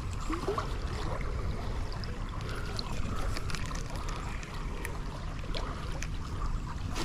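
Creek water running steadily, under a low rumble, with a few faint clicks scattered through.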